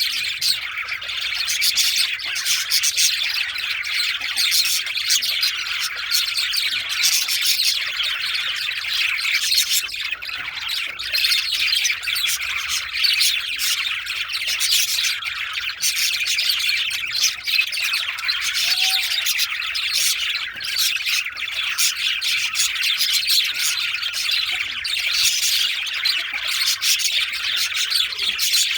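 Several budgerigars chattering and warbling continuously, with chirps and squawks.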